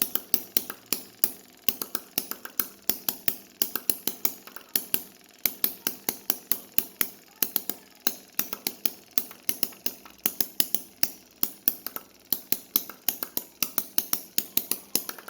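Homemade miniature internal combustion engine running, a rapid, slightly uneven train of sharp clicks about five a second, with a brief pause about five seconds in.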